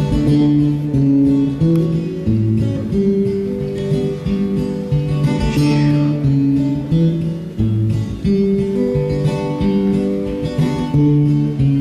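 Acoustic guitar played live, picking and strumming a steady pattern of chords as a song intro.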